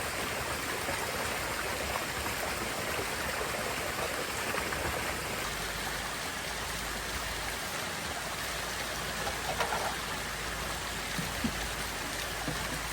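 Steady rushing noise of water, with a couple of faint brief knocks late on.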